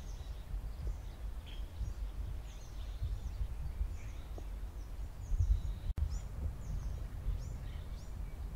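Small birds chirping, many short high calls a few each second, over a steady low rumble; the sound drops out for an instant about two-thirds through.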